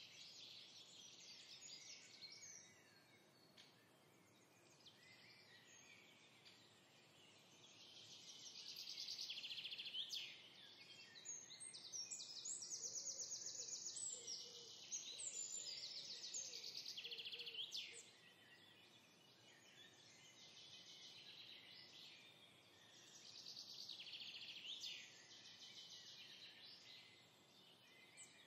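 Faint birdsong: several birds chirping and singing in quick trills, swelling and fading in spells, busiest through the middle.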